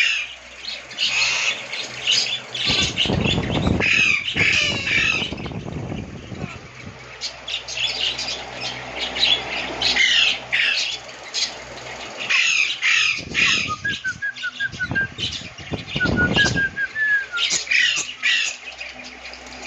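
Lovebirds chattering: a dense stream of short, harsh squawks and chirps, many calls overlapping. A low rumbling noise comes twice, about three seconds in and again past the middle.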